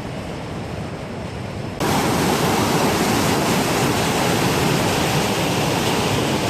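Steady rush of a waterfall, jumping suddenly louder and brighter about two seconds in.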